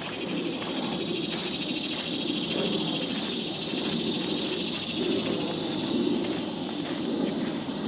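Steady chorus of insects in the woods, a high, finely pulsing buzz that swells in the middle and eases off again, with footsteps on the dirt trail underneath.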